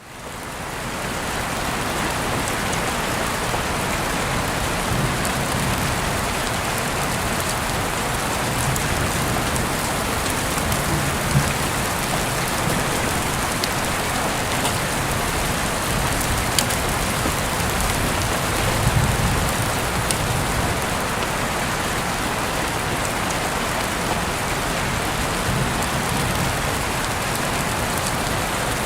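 Heavy rain falling steadily, a dense even hiss with scattered individual drop ticks, fading in over the first second.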